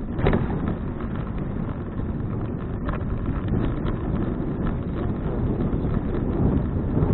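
Wind buffeting an action camera's microphone on a moving bicycle, a steady low rumble, with a couple of brief knocks from the ride.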